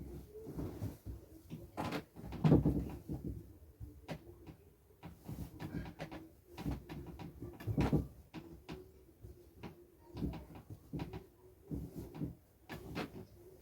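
Bed sheets being pulled and tucked onto a bed: irregular rustling and soft knocks, with a louder thump about two and a half seconds in and another about eight seconds in.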